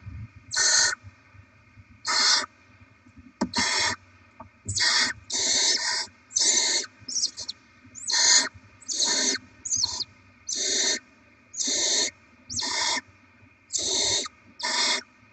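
Barn owl chicks making their food-begging hiss, a rasping snore-like call repeated about once a second in half-second bursts, some overlapping. A faint steady electrical hum runs underneath.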